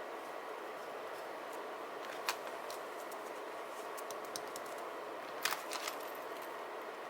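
Scattered light clicks and taps of stationery being handled on a desk, over a steady background hiss. There is one sharp tick about two seconds in, a run of lighter ticks after it, and a louder little cluster of clicks about five and a half seconds in.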